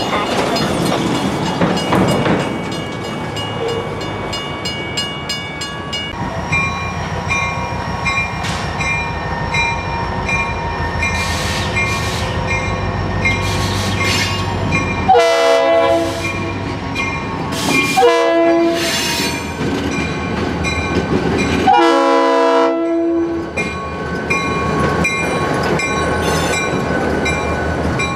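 Diesel switching locomotive running under a steady engine rumble with its bell ringing at an even pace, then three horn blasts, each about a second and a half long, in the second half.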